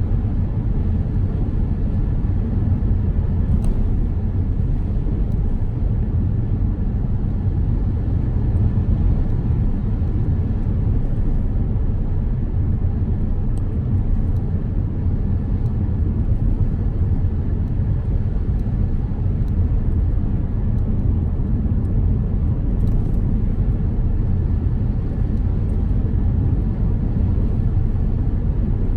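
Car driving steadily: a constant low rumble of engine and tyres on the road, with a few faint ticks.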